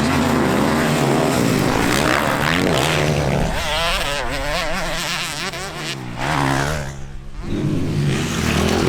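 Several motocross bikes racing past, their engines revving up and down through the gears in overlapping, wavering pitches. The sound drops briefly about seven seconds in, then builds again as more bikes come through.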